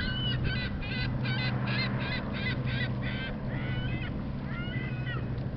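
A bird calling in a fast run of about a dozen short, repeated notes, about three a second, then two longer calls that bend in pitch, over a steady low hum and wind noise.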